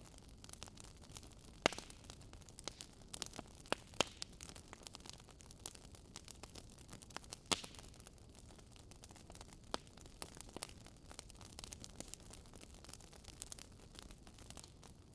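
Campfire crackling, with irregular sharp pops over a low, steady rush; the loudest pops come about a second and a half in, around four seconds in, and at about seven and a half seconds.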